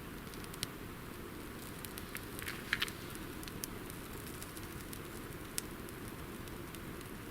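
Campfire burning: a steady hiss with scattered sharp pops and crackles, bunched together about a third of the way in.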